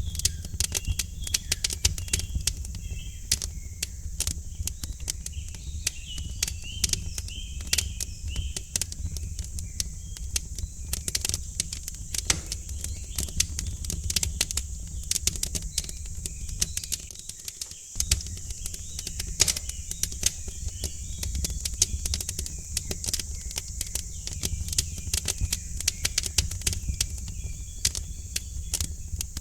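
Wood fire crackling with frequent sharp pops over a low steady rumble, with small birds chirping in the background at times.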